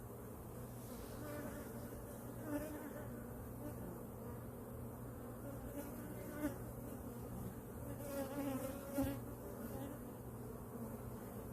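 Italian honeybees buzzing around their hive: a steady hum with individual bees flying close past now and then, loudest near the end. The colony has just been moved, and the bees are flying around to learn their new location.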